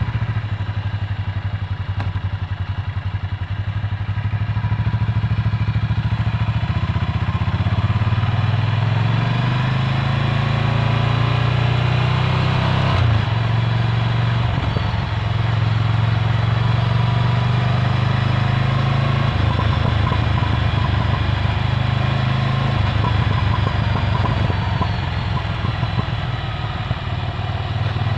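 Ducati Scrambler Full Throttle's air-cooled L-twin engine running through a Termignoni exhaust, a steady deep exhaust note that shifts in pitch a few times, rising about a third of the way in and dropping back later.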